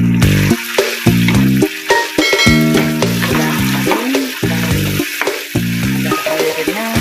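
Ground red chili paste sizzling in oil in a frying pan while a metal slotted spoon stirs it, with the paste cooked down far enough that its oil has separated. Background music with a melody of short notes plays over it.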